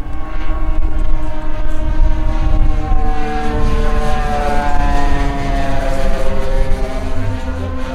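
Radio-controlled P-38 Lightning model aircraft making a fly-past: its propellers hum at a steady pitch that rises as it approaches and drops after it passes, a little past halfway through.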